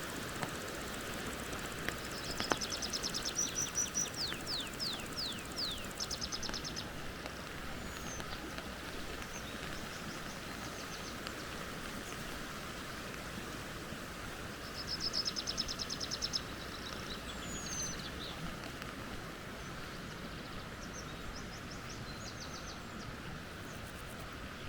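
Steady rushing of a flowing creek, with a small bird singing high above it twice: rapid trills of high notes and a few quick downward-sweeping whistles, about three seconds in and again about halfway through.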